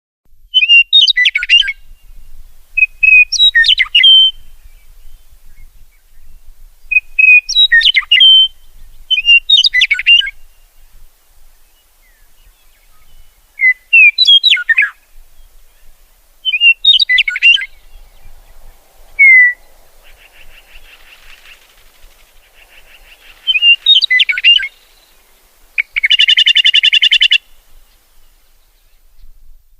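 A songbird singing short, quick, sweeping phrases every two to four seconds, starting suddenly out of silence. Near the end comes a harsh buzzy call lasting about a second and a half.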